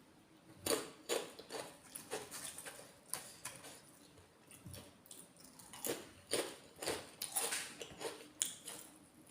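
Close-miked eating sounds: wet chewing and mouth smacks in irregular bursts of short clicks, in two spells with a lull between.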